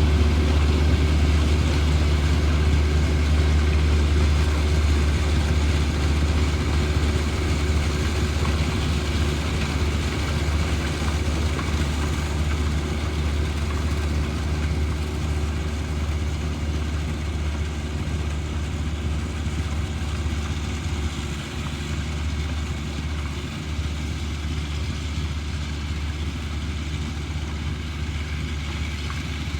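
John Deere 1025R compact tractor's three-cylinder diesel engine running steadily, slowly getting quieter.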